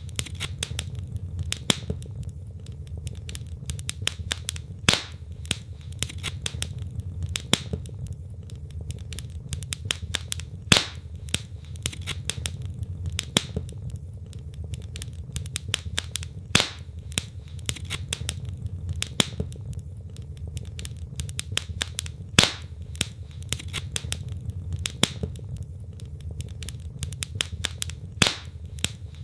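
Wood fire in a fireplace crackling, with irregular sharp snaps and pops from the burning logs, a few louder than the rest, over a steady low rumble of the flames.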